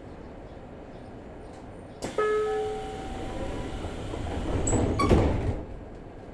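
Passenger train doors closing on a 303 series commuter car: a sudden hiss about two seconds in with a few short tones, noise building, then a sharp clattering thud about five seconds in as the doors shut, after which only a low steady background remains.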